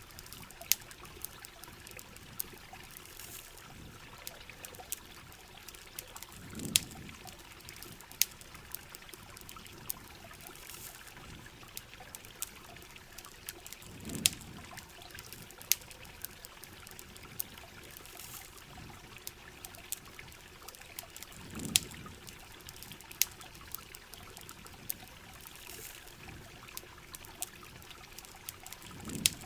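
Steady rain with water trickling, and sharp crackles and pops of a campfire scattered throughout. A short low whoosh comes back about every seven and a half seconds.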